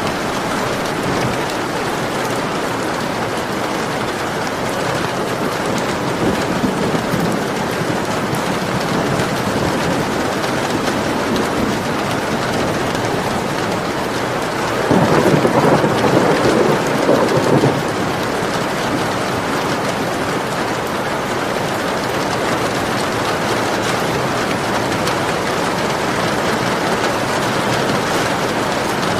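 Steady rain falling, with a roll of thunder about halfway through that lasts about three seconds.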